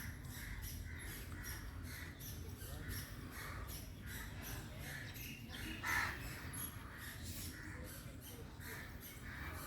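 A bird gives one short, harsh squawk about six seconds in, over a steady low rumble and a fast, regular high-pitched pulsing.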